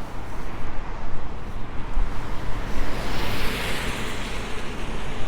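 Wind buffeting a lapel microphone over steady street traffic noise. About three seconds in, a passing car's tyre hiss swells and fades.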